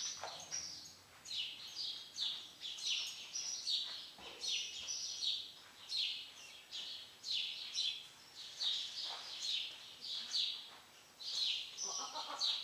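Small birds chirping continuously, a rapid string of short, high, downward-sliding notes.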